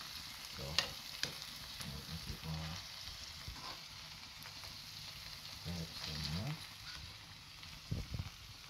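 Saltfish, onion and sweet pepper sizzling in oil in a frying pan while being stirred with a spoon. There is a steady hiss, with a couple of sharp clicks of the spoon against the pan about a second in.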